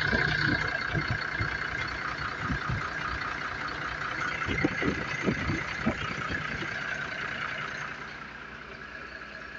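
A truck engine idling steadily, with irregular low thumps over it for the first several seconds; the sound grows quieter near the end.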